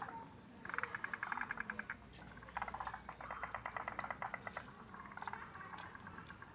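Tree frogs calling: rapid pulsed trills, several overlapping in turn, one call after another.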